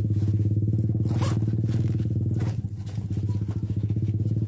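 A small engine running steadily at constant speed, with a fast, even pulse. It dips briefly in level about two and a half seconds in.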